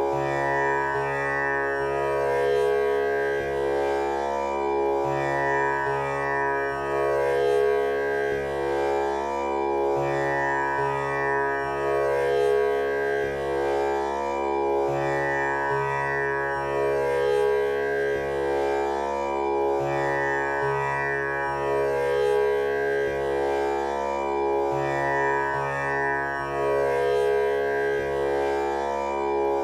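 Tanpura drone tuned to C#: its strings are plucked in a steady repeating cycle, about four plucks every five seconds, each note ringing into the next to make a continuous drone.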